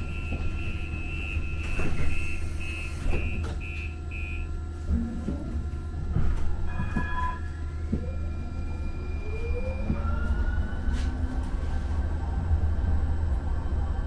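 Muni Metro light-rail train: high warning beeps repeat at about two a second, typical of the door-closing chime, and stop about four seconds in. From about eight seconds in, an electric motor whine rises in pitch as the train pulls away, over a steady low rumble.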